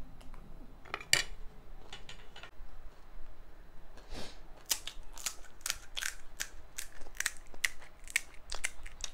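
Close-up mouth sounds of crunchy chatpate (a spicy Kurkure snack mix) being chewed. There is one sharp crunch about a second in, then crisp crackling crunches come two or three a second from about halfway through.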